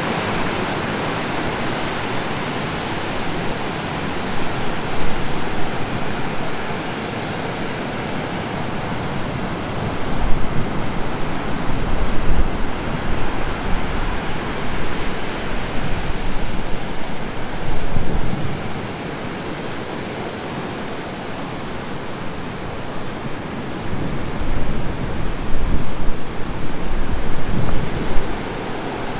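Heavy surf after a typhoon: a continuous roar of breaking waves that swells louder in surges, about ten seconds in, again at around sixteen to eighteen seconds, and near the end, with a low rumble under the louder surges.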